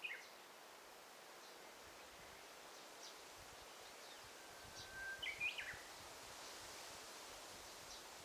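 Forest birds calling over a faint steady background hiss: a short falling call right at the start, scattered faint high chips, and a louder song phrase about five seconds in, a held whistle leading into quick rising and falling notes.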